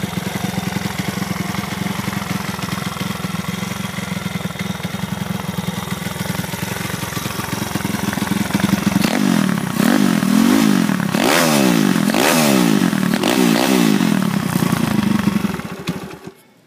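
Honda CT70 mini bike with a 140cc Piranha single-cylinder four-stroke engine and aftermarket muffler, idling steadily, then revved up and down over and over, about once a second. The engine sound cuts off suddenly near the end.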